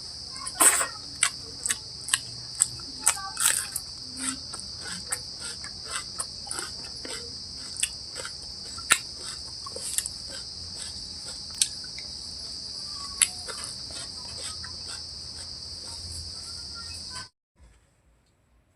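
Crickets trilling steadily in the background, with many short wet clicks and smacks of someone eating over them. Everything cuts off abruptly about 17 seconds in.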